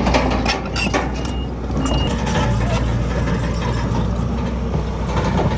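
Heavy diesel earthmoving machinery running steadily with a deep rumble, a few knocks in the first second and two short high-pitched tones about a second and a half in.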